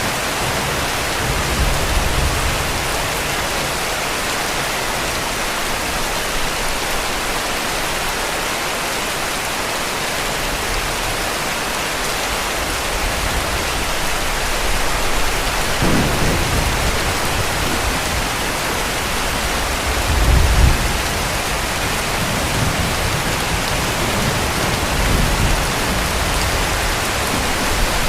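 Heavy rain with a steady hiss, joined by low rumbles of distant thunder that come and go; the strongest rumble comes about two-thirds of the way in.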